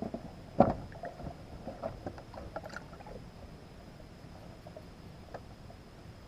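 Handling knocks and small clicks aboard a small fishing boat, with one sharp thump about half a second in, then a few faint taps as things settle.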